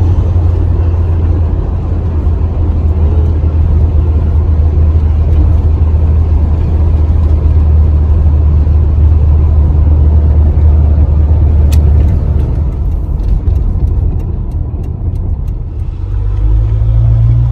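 Truck running on the road, heard from inside the cab: a steady low engine and road drone that eases off about twelve seconds in and picks up again near the end. Through the second half comes a run of light ticks and taps, which the driver puts down to the whip antenna hitting stuff.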